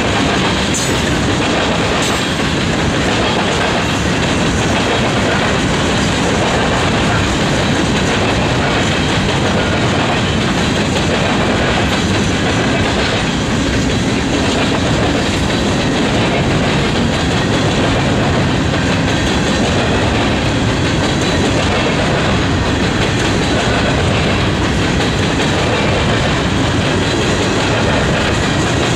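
Freight train rolling past at steady speed: a constant loud rumble of steel wheels on rail, with the clicking of wheels over rail joints.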